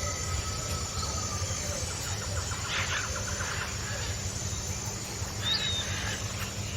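Birds chirping outdoors in short bursts, about three seconds in and again about five and a half seconds in, over a steady low rumble.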